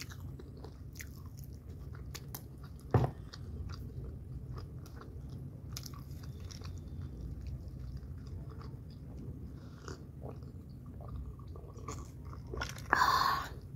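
Close-up chewing of chicken wing meat, with many small wet mouth clicks, and one sharp knock about three seconds in. Near the end comes a loud sip from a glass of a dark drink.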